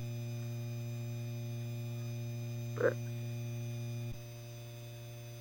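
Casablanca ceiling fan's motor running on high with a steady electrical hum. About four seconds in there is a click, and the hum drops slightly as some of its higher tones stop.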